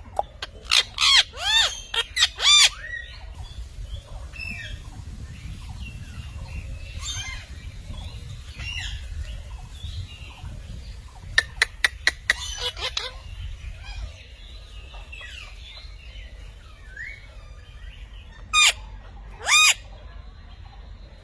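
Parrot squawking: a burst of several loud, shrill calls at the start, a run of sharp clicks around the middle, and two more loud squawks near the end.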